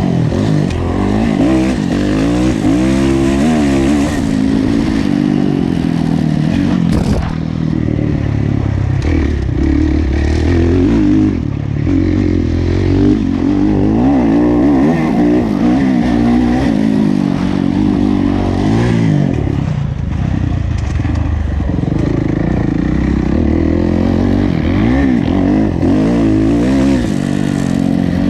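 Kawasaki KX450F four-stroke single-cylinder motocross engine racing, its revs repeatedly rising and falling as the throttle is worked and the gears change.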